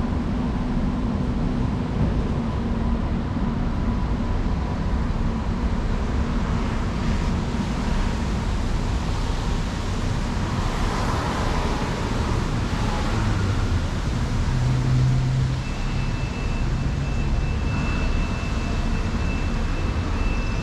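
Steady city street traffic noise: vehicle engines and tyres as a constant low rumble, with a faint high steady whine joining about three-quarters of the way through.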